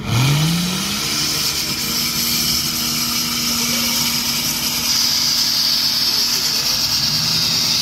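Off-road vehicle's engine revved hard under full throttle while climbing out of a mud pit, rising sharply in pitch at the start and then held at high revs, with a steady hiss from the wheels churning the mud. The thick black exhaust smoke points to a diesel engine being heavily over-fuelled.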